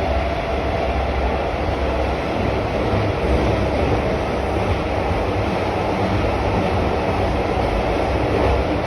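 Moscow metro train running, a steady rumble of its wheels on the rails.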